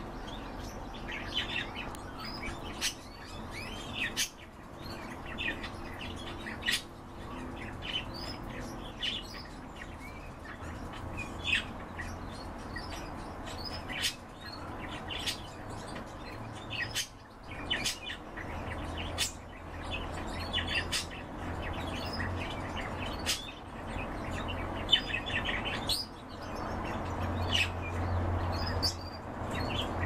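Several caged birds chirping and calling in short, scattered bursts, with sharp clicks, over a low steady hum.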